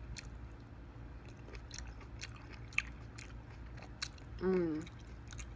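Close-miked biting and chewing of fresh dark grapes: a string of short, sharp, wet mouth clicks. A brief hummed voice sound comes about four and a half seconds in.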